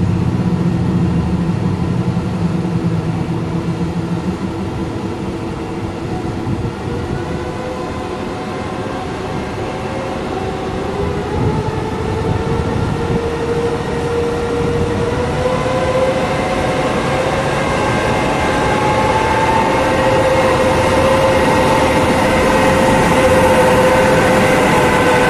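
EP2K electric passenger locomotive running, a steady hum and whine with several held tones. One tone rises in pitch about halfway through and then holds, and the sound grows louder toward the end.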